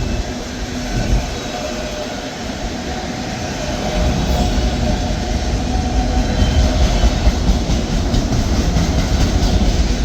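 Empty autorack freight cars rolling slowly past on the mainline: a steady rumble of steel wheels on rail that grows louder about four seconds in.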